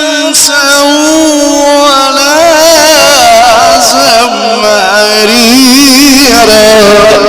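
A man's voice chanting Quran recitation in long, ornamented melodic runs, the pitch wavering and gliding on held vowels, with heavy echo.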